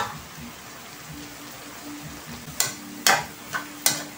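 Sliced bottle gourd and shrimp sizzling in a metal wok with a low steady hiss, then a metal spatula stirring and scraping the wok in four quick strokes near the end.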